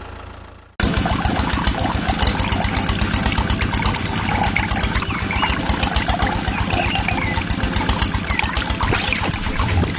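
Diesel engine running steadily with a fast low chugging, which cuts in abruptly about a second in. High chirps sound over it.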